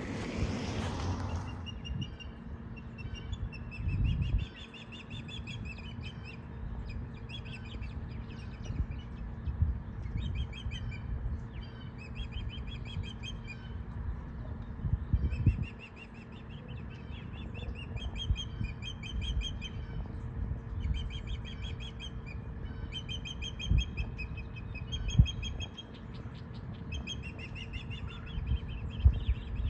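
Songbirds singing, many short repeated trilled phrases one after another, over a low rumble with a few dull thumps.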